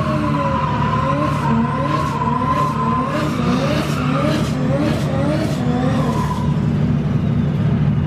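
Drift car on track, its engine revving up and down over and over, about twice a second, with tyres screeching as it slides. This dies away about six seconds in, leaving a steady low rumble.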